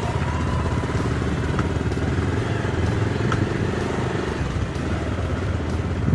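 Motorcycle engine running steadily while riding, a dense low rumble with rapid pulsing that cuts in suddenly.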